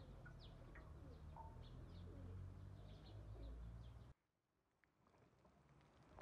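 Faint birdsong, a few short chirps and calls, over a steady low rumble. It all cuts off suddenly about four seconds in.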